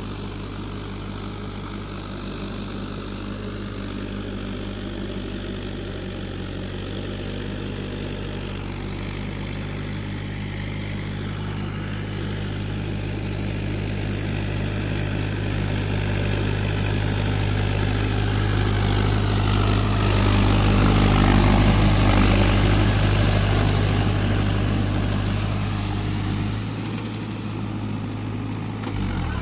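Mahindra tractor's diesel engine running steadily. It grows louder as it comes close, loudest about two-thirds of the way through, then eases off.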